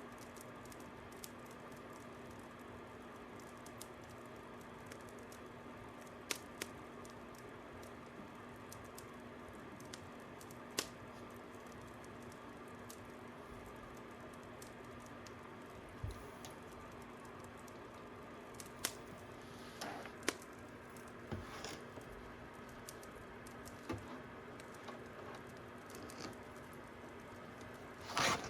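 Fire crackling: scattered sharp pops every few seconds over a steady low hiss, with a burst of louder crackles near the end.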